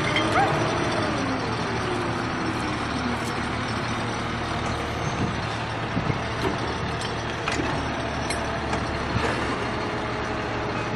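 A heavy vehicle's engine running under a steady rumble. Its pitch drops over the first few seconds as it slows, and a few light knocks come through.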